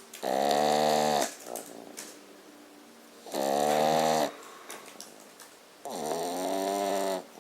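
French bulldog snoring: three loud snores, each about a second long, coming roughly every three seconds.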